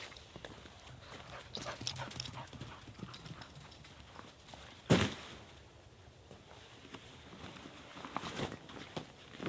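Scattered short knocks and crunching sounds, with one loud sharp thump about five seconds in and another near the end.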